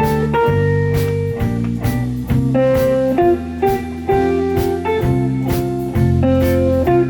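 Live ensemble music from a pop-jazz group: sustained chords and melody notes over a steady beat.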